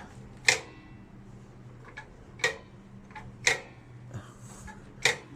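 Sharp metallic clicks, four loud ones one to two seconds apart with fainter ones between, as the rear drum brake pedal and arm of a Kawasaki KH125 are worked and snap back, testing that the brake returns instead of staying stuck on. A low steady hum underneath.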